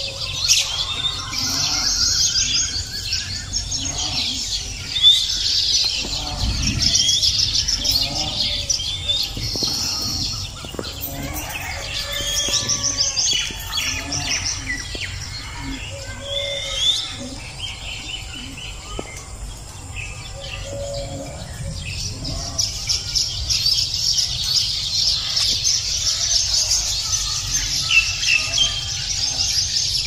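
Birds chirping and twittering continuously, many quick high chirps overlapping, thinning out a little in the middle and thickening again towards the end.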